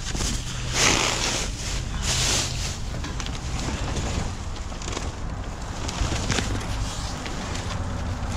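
Car running on the road: steady low engine hum and road noise. A few loud bursts of noise come in the first two and a half seconds.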